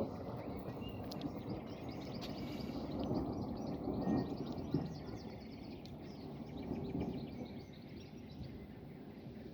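Thunder rumbling and slowly dying away, swelling briefly a few times, while small birds keep chirping over it.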